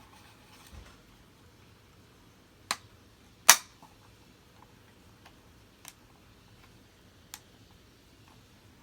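A few separate sharp clicks, the loudest about three and a half seconds in, with fainter ticks later on.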